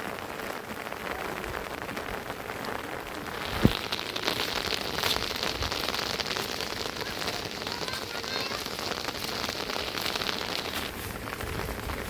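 Steady rain falling, with a single dull thump a little under four seconds in.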